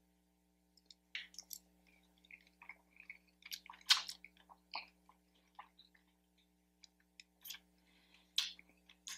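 Close-miked chewing of a soft mouthful of scrambled eggs and potatoes: scattered wet smacks and small clicks, loudest about four seconds in.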